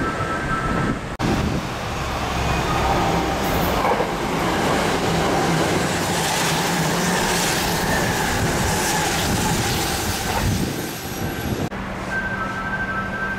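Kintetsu 23000 series Ise-Shima Liner running through the station at speed without stopping: a loud rushing of the passing cars with wheel-on-rail clatter and some wheel squeal, loudest in the middle. A repeating two-note electronic tone sounds briefly at the start and again near the end.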